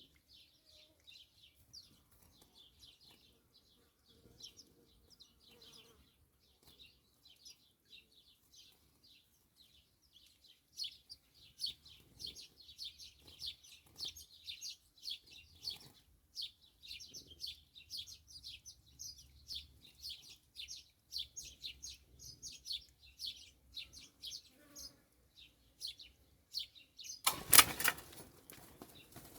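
Small songbirds giving rapid high chirping calls, sparse at first and then nearly continuous. Near the end a single loud, noisy burst lasting about a second cuts across the chirping.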